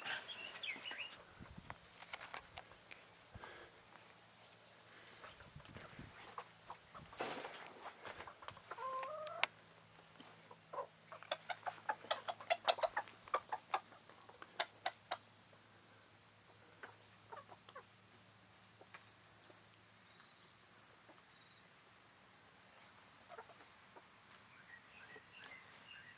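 Chickens clucking softly, with one rising call about eight seconds in and a quick run of short, sharper clucks around the middle.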